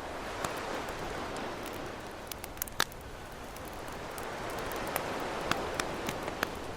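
Campfire crackling, with sharp pops scattered through, loudest nearly three seconds in and several more in the second half, over ocean waves washing in and out in slow swells.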